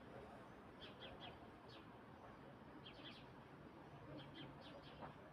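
Faint bird chirps: short high notes in quick clusters of two or three, repeating about once a second over a soft background hiss.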